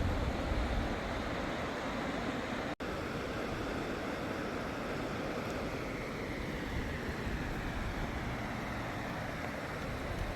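Steady roar of rushing floodwater with wind buffeting the microphone, broken by a brief dropout about three seconds in.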